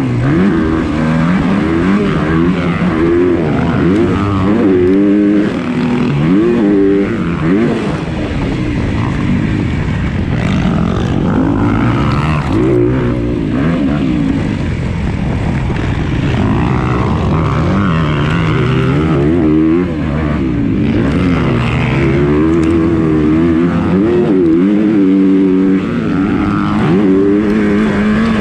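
Motocross dirt bike engine racing at high revs, its pitch climbing and dropping over and over as the throttle is opened and shut and it shifts through the gears.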